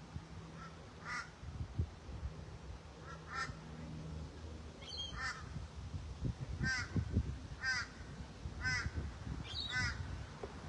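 A bird calling over and over, a short harsh call about once a second, seven times.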